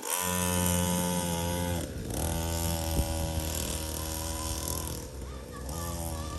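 A small 50cc kids' dirt bike engine running and revving, its pitch dropping as the throttle is eased off three times: at the start, about two seconds in and around five seconds in.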